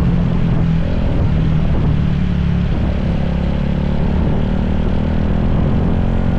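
Big-bike motorcycle engine running at a steady speed, its even note over a constant rushing noise.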